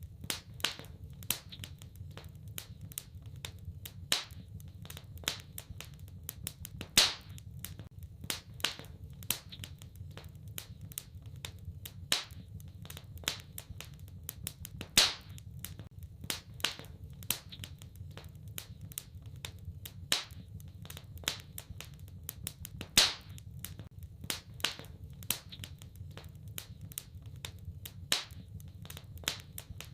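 Wood fire crackling in a fireplace: irregular sharp pops and snaps, a handful of them much louder, over a low steady rumble.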